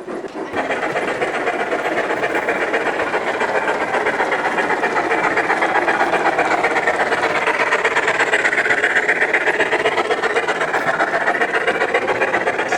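Model train running on the layout: a steady, fast, even rhythmic chugging clatter that gets louder about half a second in.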